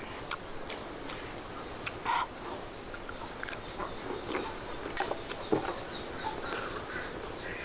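A person chewing a mouthful of crisp green tamarind: irregular short crunches and clicks of the firm sour fruit being broken up between the teeth.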